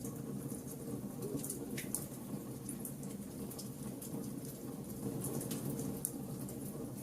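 Wood fire burning: a steady low rush of flames with frequent small crackles and pops from the burning wood, and a sharper pop about six seconds in.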